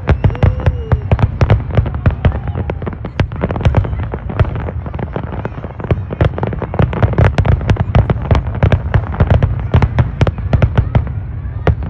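Fireworks going off in rapid succession: a dense stream of sharp bangs and crackles, several a second, over a continuous low rumble.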